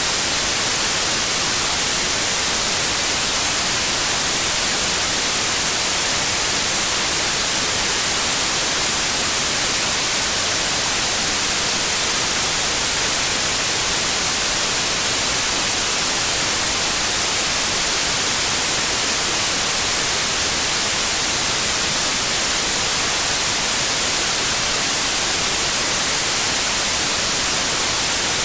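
Continuous white noise, steady and unchanging, bright and hissy with most of its energy in the high frequencies.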